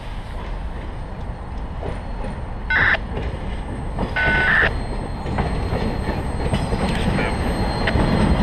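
Freight train rolling up to and into a grade crossing, the rumble of its cars and wheels growing louder near the end. Two short, high-pitched warning blasts sound about three and four seconds in.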